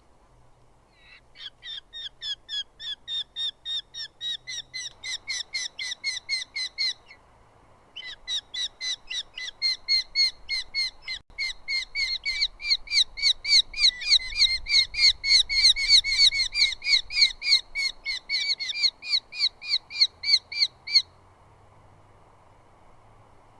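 Eurasian hobby calling at the nest: a long series of sharp, evenly repeated notes, about four a second, breaking off once for about a second partway through.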